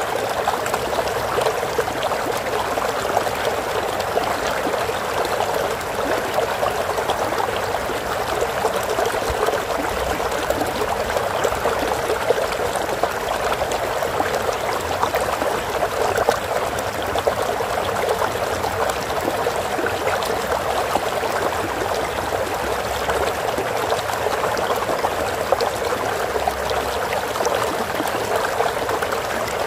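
Running water of a stream, a steady continuous babbling and trickling with no let-up.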